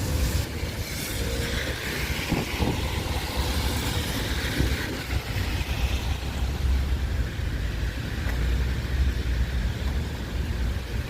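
Wind buffeting the microphone, with the hiss of a vehicle's tyres on a wet road swelling and fading in the first half.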